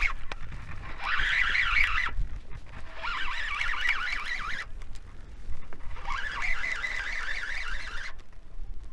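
A small bird singing three rapid warbling, trilled phrases, each about a second and a half long, with a second or so between them, over a faint low rumble.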